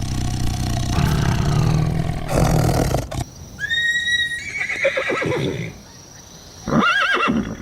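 A deep rumbling roar for about three seconds that breaks off abruptly, then a horse whinnying twice, each neigh a high, trembling call that wavers in pitch.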